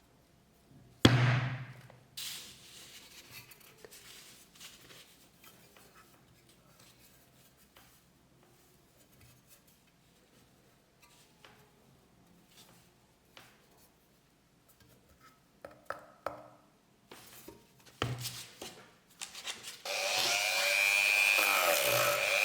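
Faint clicks and rubbing of work on the metal, with a sharp knock about a second in, then a small power tool starts about two seconds before the end and runs steadily at a high, even pitch.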